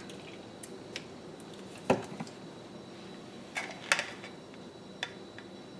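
A few scattered clicks and knocks of kitchenware being handled, with one heavier knock about two seconds in, as salad-dressing ingredients are handled at the counter.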